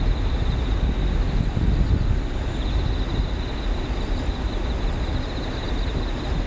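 Low, steady rumble of a departing Airbus A320-214's CFM56 jet engines in the distance, mixed with wind on the microphone. A high, pulsing insect trill runs over it.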